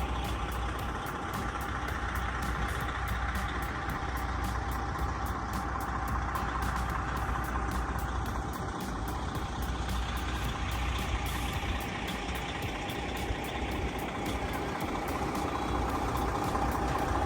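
A vehicle engine running steadily at a low, even level, with a constant hum and a held mid-pitched tone throughout.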